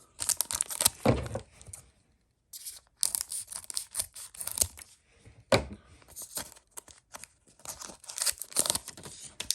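A trading-card pack wrapper being torn open and crinkled in the hands, in several rustling bursts with a sharp snap about five and a half seconds in.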